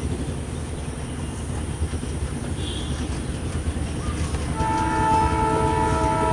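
WDM3D diesel locomotive running with a low rumble, then sounding its horn about four and a half seconds in: a steady chord of several notes, held on.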